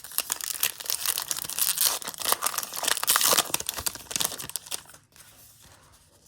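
Plastic-foil trading card pack wrapper crinkling as it is torn open, a dense crackle for about three and a half seconds that then dies down to faint handling.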